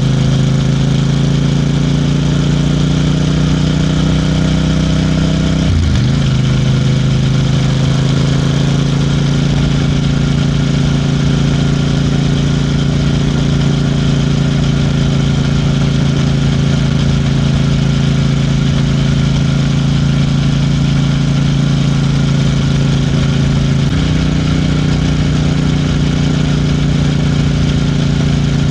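Royal Enfield Bear 650's 648 cc parallel-twin engine under way on a ride. Its note climbs slowly as the bike accelerates, drops abruptly about six seconds in with an upshift, then holds steady at cruising speed, with a small change in note a few seconds before the end. Wind rushes over the microphone throughout.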